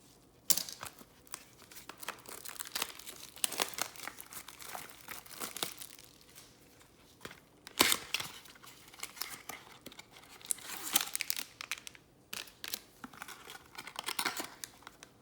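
Packaging of a trading-card mini box being crinkled and torn open by hand, a run of irregular crackles and rips with one sharp snap about eight seconds in.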